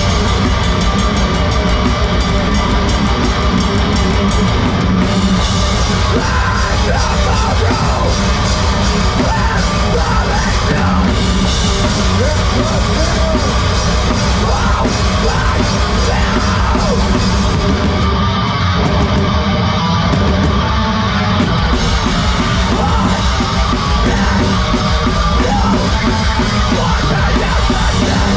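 Live heavy rock band playing at full volume, with distorted guitars, pounding drums and yelled vocals.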